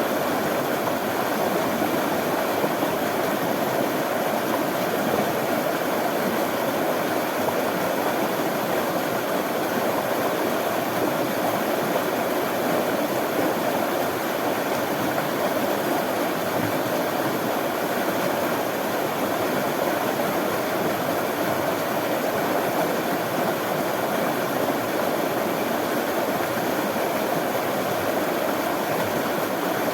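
Running water, a steady, unbroken rush of flowing water with no breaks or changes.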